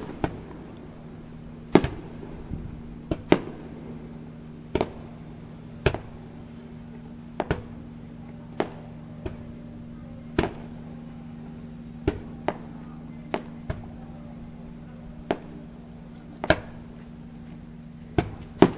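Aerial firework shells bursting at a distance: a run of sharp bangs, irregular but about one a second, each with a short echo. A steady low hum runs underneath.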